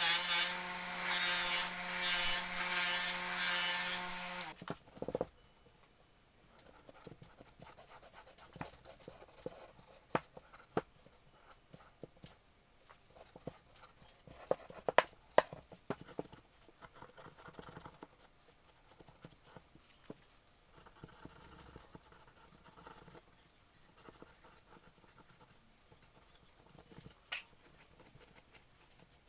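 Bench buffer motor running steadily with a Scotch-Brite wheel scrubbing an aluminum engine case, the wheel's scratching over the motor's hum; it stops abruptly about four and a half seconds in. After that, faint scratching and a few sharp clicks.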